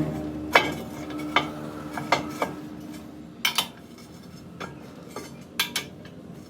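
Light metal-on-metal clinks and taps at irregular intervals, about ten in all, as tools or steel parts are handled and knocked together. A low machine hum fades away during the first few seconds.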